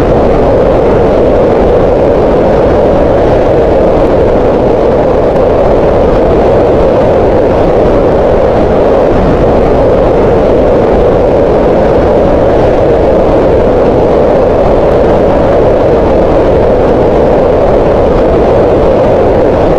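Green noise: a loud, steady, unchanging rushing hiss, strongest in the low middle of the pitch range.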